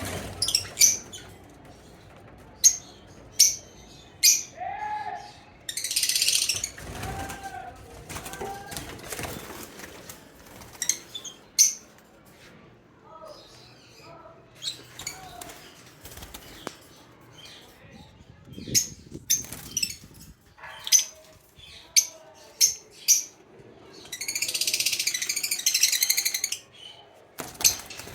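Birds moving about, with wings flapping in two brief rushes and scattered sharp clicks and short calls in between.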